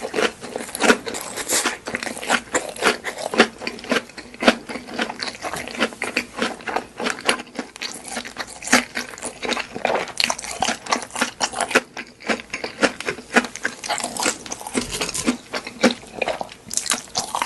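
A person eating close to the microphone: rapid, irregular chewing and crunching of food with wet mouth clicks, several a second throughout.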